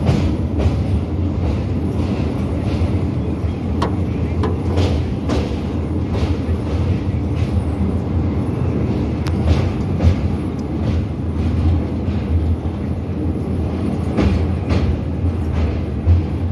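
Passenger train running at speed over a steel truss bridge, heard from inside the coach: a steady rumble of wheels on rails with repeated sharp clacks.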